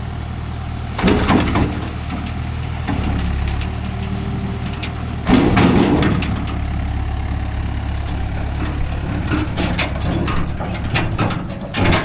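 Diesel engine idling steadily while a backhoe loads cow dung, with two loud crashes about one and five seconds in as loads drop, and scattered clattering near the end.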